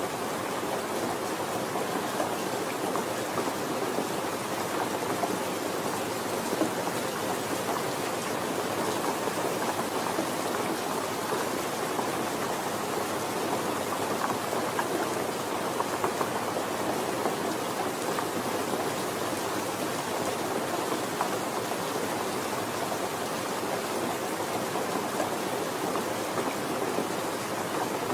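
Steady rain falling, an even hiss with faint patter of drops on surfaces.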